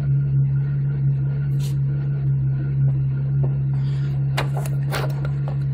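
Supercharged 2010 Chevrolet Camaro engine idling steadily, with a few sharp clicks and crackles near the end.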